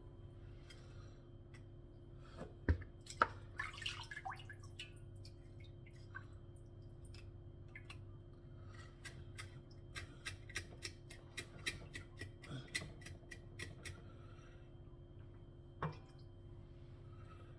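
Faint small clicks and taps of a tool and fingers working at raw chicken feet to peel off the tough outer skin, coming in scattered bunches with a quick run of about three or four clicks a second near the middle. A steady low hum sits underneath.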